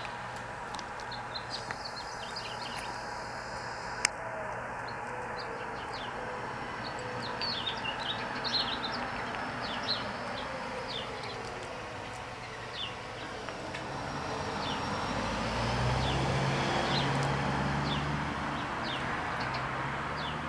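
Small wild birds chirping, short calls scattered throughout over steady outdoor background noise. A single sharp click comes about four seconds in, and in the second half a low engine hum swells and then eases off.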